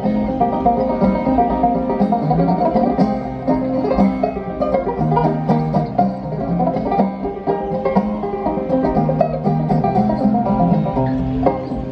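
Banjo music: a fast instrumental passage of plucked banjo notes, with no singing.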